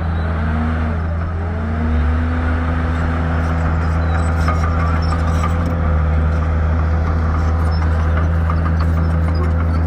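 Shantui bulldozer's diesel engine running under load, with a whine that rises in pitch over the first second or two and then holds steady.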